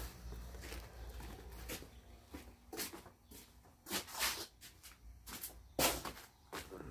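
Handling noises: a low rumble for the first two seconds, then several separate short scrapes and knocks, the loudest about six seconds in.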